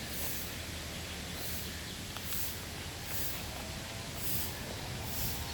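Outdoor bird park ambience: a steady low rumble under a high, thin chirp that repeats about once a second, with faint distant calls a little past the middle.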